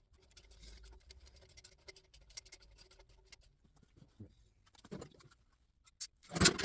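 Hand tools working a harmonic balancer puller on a 350 Chevy small-block's crank: light, irregular metallic clicks and scraping, with a loud knock about six seconds in.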